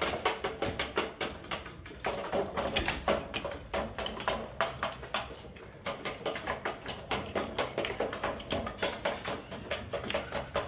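Light Columbian Brahma chickens, heard as a dense run of short taps and clicks, several a second.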